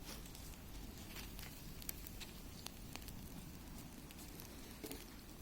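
Wood bonfire crackling: irregular sharp pops and snaps, a few seconds apart, over a low steady rumble.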